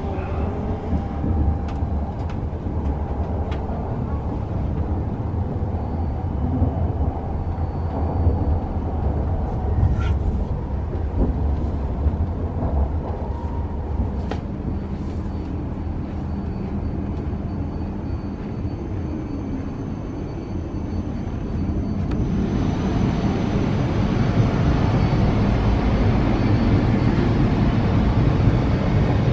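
Shinkansen bullet train running, heard inside the passenger car as a steady low rumble with a few faint clicks. The noise grows louder and fuller about two-thirds of the way through.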